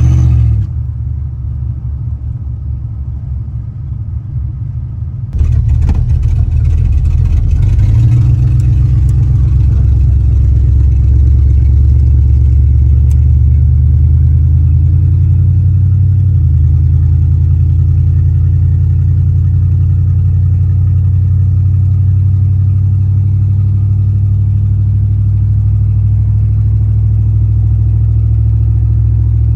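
Chevy 350 small-block V8 engine running steadily in a hot rod, with a quieter, duller stretch from about one to five seconds in.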